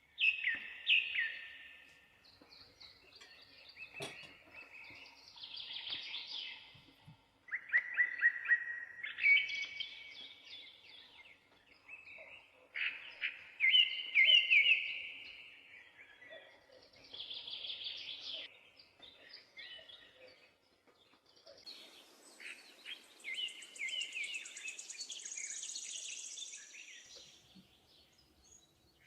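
Bird song: short phrases of quick, high chirps and trills, repeated with brief pauses between them.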